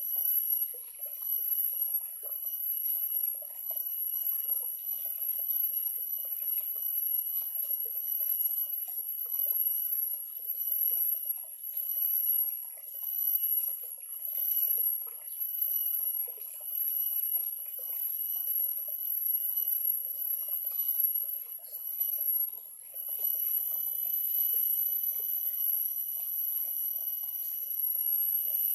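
Small stream of water trickling and babbling, its level rising and falling every second or so, under a steady high-pitched whine that shifts slightly in pitch about three-quarters of the way through.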